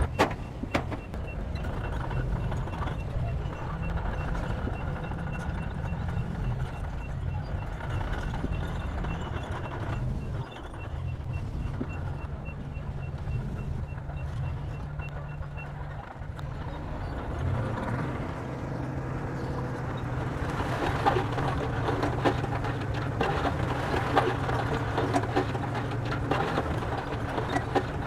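Heavy diesel engine of a bulldozer running steadily under load, with a reversing alarm beeping at an even pace for roughly the first half. The machine noise grows louder and busier after about twenty seconds.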